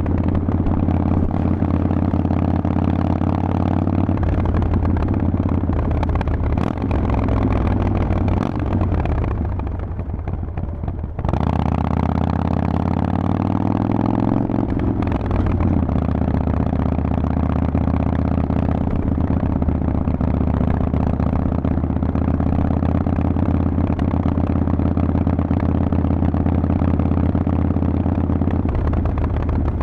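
Harley-Davidson Forty-Eight's air-cooled V-twin running through a Vance & Hines exhaust while riding. About nine seconds in the engine eases off and drops in pitch. It then comes back on sharply and rises in pitch for a few seconds before settling into a steady cruise.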